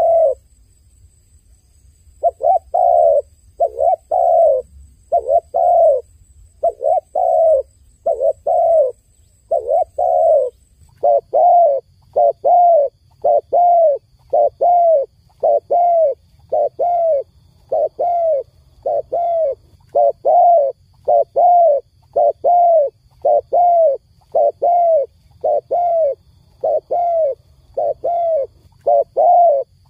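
A dove cooing over and over in short, slightly falling notes, about two a second. There is a pause of about two seconds near the start. From about a third of the way in, the notes run on in an unbroken, even series.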